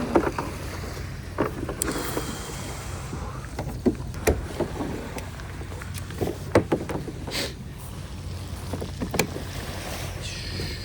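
Scattered knocks and clunks of gear being handled aboard a kayak, over a steady low rumble; near the end there is a brief higher curved sound.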